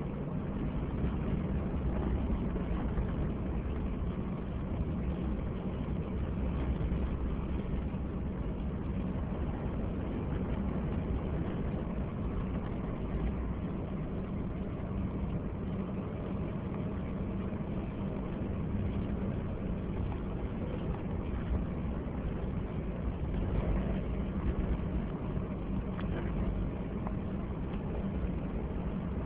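Vehicle driving on a snowy mountain road: a steady, low engine and road rumble with no sudden events.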